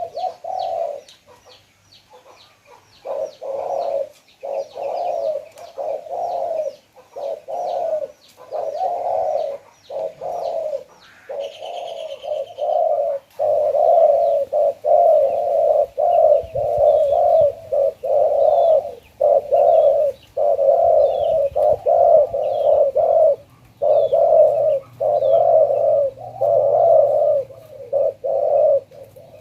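Spotted dove cooing over and over, its low notes following each other almost without a break from about three seconds in. A fast, high ticking series runs beneath the first third.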